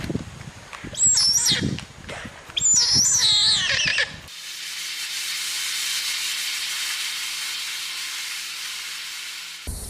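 Several loud, high-pitched, wavering animal calls, then an abrupt change about four seconds in to a steady high hiss.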